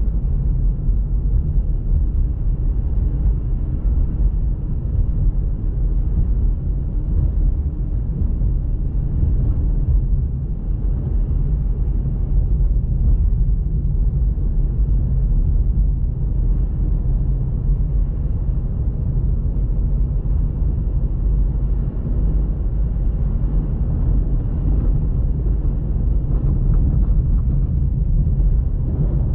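Steady low rumble of a car driving, its engine and tyre noise running evenly throughout.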